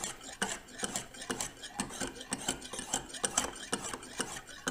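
Lansky 600-grit hone, guided by its angle rod, rasping back and forth along a clamped steel knife edge in quick repeated strokes.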